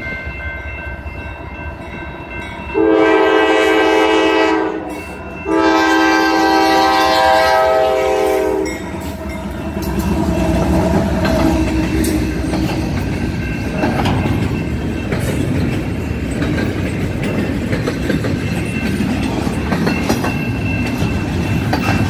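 CSX freight locomotive's air horn sounds two long chord blasts for the grade crossing, starting about three seconds in and again after a short break. Then the train reaches the crossing and the double-stack container cars roll by with a steady rumble and wheel clickety-clack.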